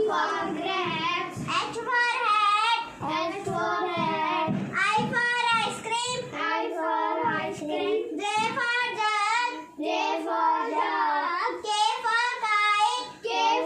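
A young girl singing an alphabet phonics song in short phrases with a wavering pitch.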